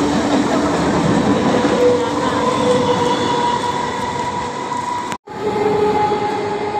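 ICF-built EMU electric train running past a platform at speed: a loud, dense rumble of wheels on rails with a few steady whining tones over it. The sound drops out for a split second about five seconds in, then picks up again.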